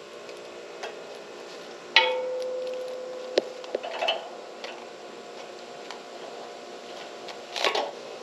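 Hands working hose fittings and tools on a pump and water heater: a sharp clank about two seconds in that rings briefly, then scattered clicks and taps, with a rattling cluster near the end, over a faint steady hum.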